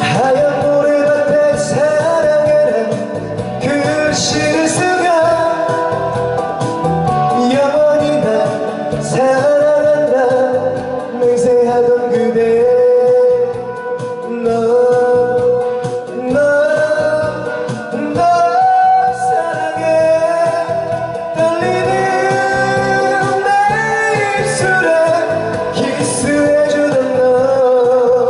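A singer sings a Korean trot song live, with a backing track, holding long notes that bend in pitch.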